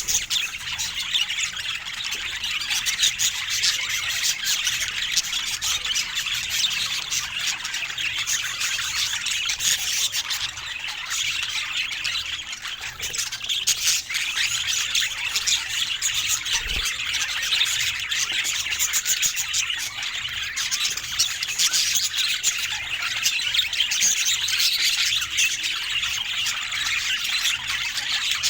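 Budgerigars chattering: a continuous, dense mix of quick chirps, warbles and squawks.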